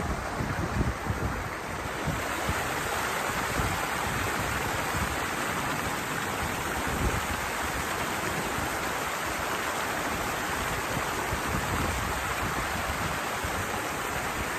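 Steady rush of water flowing at a small weir outflow, with wind buffeting the microphone for the first couple of seconds.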